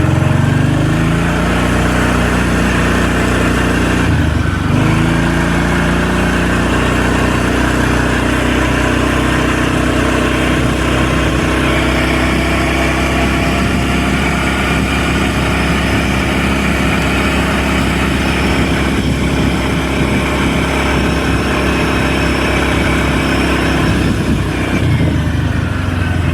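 A vehicle engine running steadily, its pitch dipping and picking up again about four seconds in.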